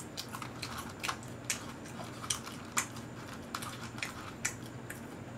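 Eating French fries close to the microphone: chewing with irregular soft clicks and crackles, over a faint steady hum.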